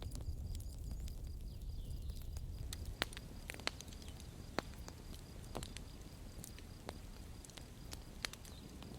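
Campfire crackling: irregular sharp pops and snaps of burning wood over a low rumble of the flames. The loudest pop comes about three seconds in.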